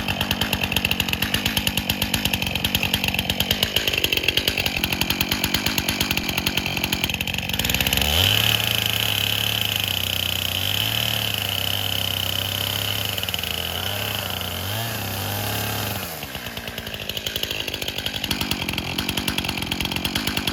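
Chainsaw on an Alaskan chainsaw mill idling with a fast, even putter. About eight seconds in it is throttled up and runs steadily under load for about eight seconds, cutting a log too large for the size of the saw, then drops back to idle.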